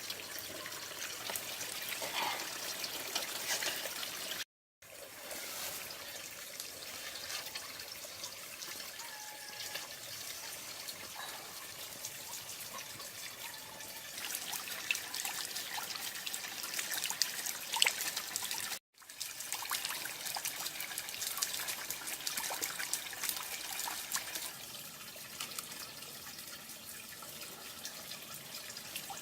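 Water trickling steadily down a small built waterfall, cutting out briefly twice.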